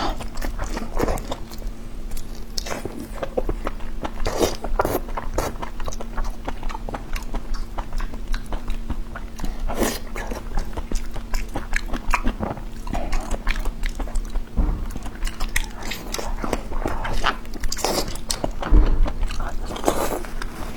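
Close-miked chewing and biting of braised pork large-intestine ends: a steady run of short, irregular mouth clicks and chews.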